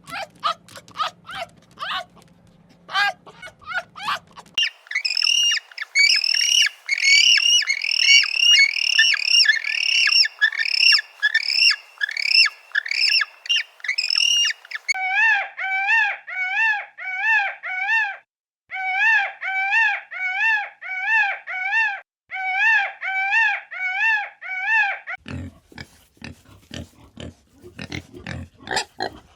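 A run of farm animal calls. First come quick clicks and chirps over a low hum, then fast, dense, high-pitched calls. Next comes a steady series of rise-and-fall peeps, about three a second, and in the last few seconds low grunting.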